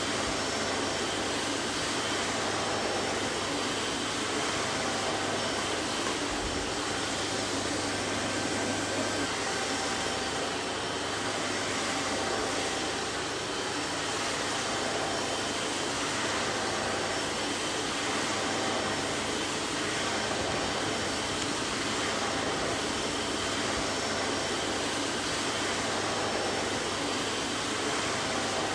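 Vacuum cleaner running steadily: an even rushing of air with a low motor hum and a few faint, steady whining tones above it.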